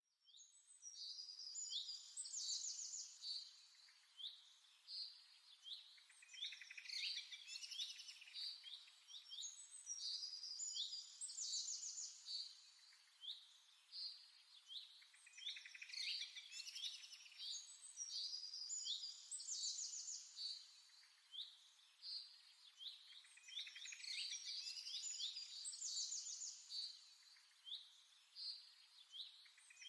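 Several small birds chirping and singing, with quick high calls and trills overlapping continuously.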